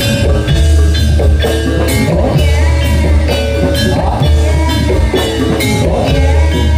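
Loud live music accompanying a jathilan dance: drums striking a steady beat about twice a second over a heavy bass, with a melody line that holds and bends in pitch.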